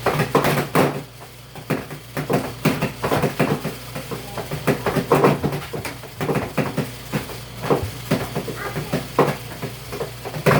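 Portable washing machine running its wash cycle, with a steady low motor hum. Irregular knocks and clatter come through over it.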